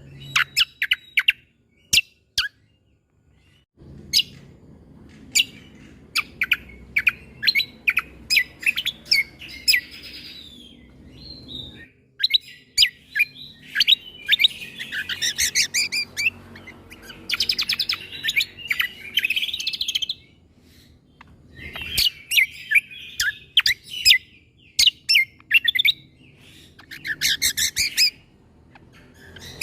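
Cucak kombo (kecial kombo) songbird singing phrases of rapid, sharp, piercing notes and fast trills, the 'shooting' type of song, with short pauses between bursts.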